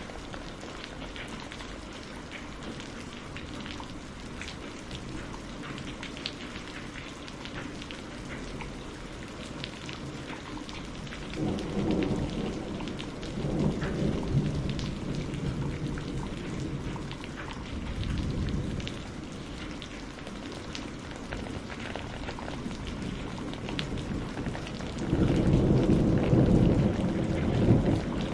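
Steady rain falling with a patter of scattered drops. Low thunder rumbles in about eleven seconds in, swelling and fading over several seconds. A louder roll of thunder begins about twenty-five seconds in.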